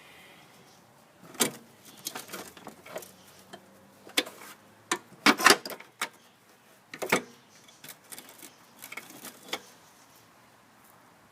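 Irregular clicks, knocks and clinks of hand work on metal mower parts, with a loudest cluster about five seconds in, as packed debris is picked and pried off the mower's drive axle.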